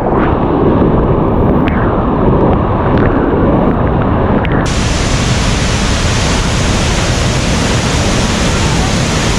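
Steady rush of a large waterfall, with wind buffeting the microphone. About four and a half seconds in it switches suddenly to a brighter, fuller hiss of falling water.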